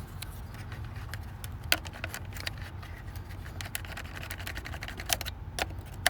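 Plastic automotive relays being pulled out of and pushed into the under-hood relay box: scattered sharp clicks and small knocks, the loudest about a second and a half in and near the end, over a steady low hum.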